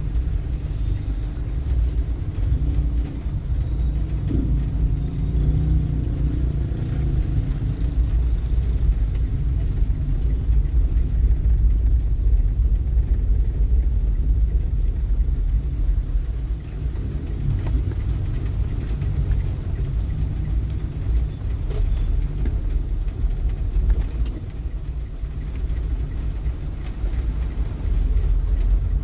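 Steady low rumble of a vehicle on the move, with no distinct events standing out.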